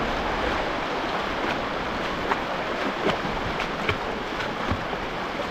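Rushing river water: a steady, even rush, with a few short knocks in the second half.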